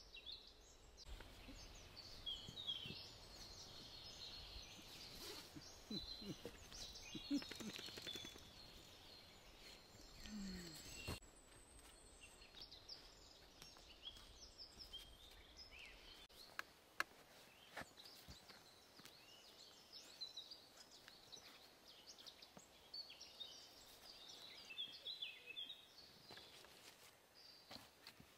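Faint birdsong: several small birds chirping and trilling, with a few scattered soft clicks.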